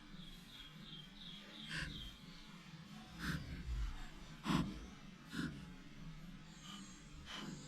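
Woodpecker pecking at wood: single sharp knocks at irregular gaps of one to two seconds, the loudest about halfway through. Over the first two seconds a quick series of high, short call notes runs at about four a second.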